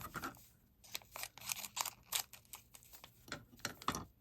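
Plastic wrap of a miniature toy capsule being cut and pulled apart by hand: irregular crinkles and small clicks.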